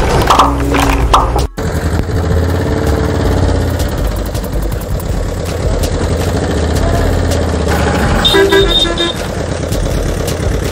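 A vehicle's motor running steadily, with a short run of quick horn beeps about eight seconds in. Music plays for the first second or so and cuts off suddenly.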